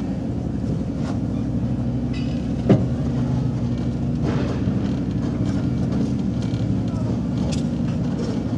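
Steady low rumble of the Durango & Silverton train, heard from its rear car, with one sharp clank about three seconds in and voices in the background.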